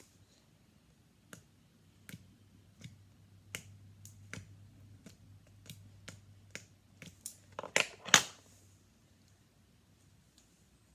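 Slime being squeezed and stretched by hand, giving a string of small wet clicks and pops, loudest in a quick pair about eight seconds in.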